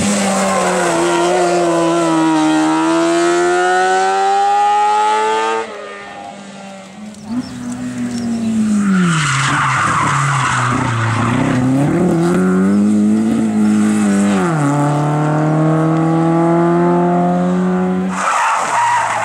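Race car engines running hard at full throttle, the note sinking and climbing as the cars brake, change gear and accelerate away. Tyres squeal as a car slides through a corner. The sound breaks off suddenly about six seconds in and again near the end, as one car gives way to the next.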